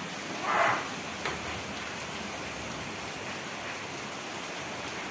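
Steady hiss of rain falling on wet concrete and plastic tubs, with a short louder rush of water about half a second in.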